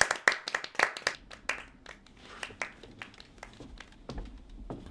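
A small group of people clapping. The claps are dense and loud at first, then thin out into scattered, quieter claps.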